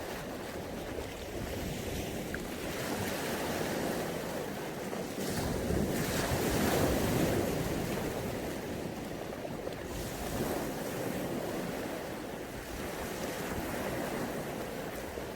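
Mediterranean Sea waves washing onto the shore, surf that swells and ebbs, one wave louder a few seconds in, with wind buffeting the phone's microphone.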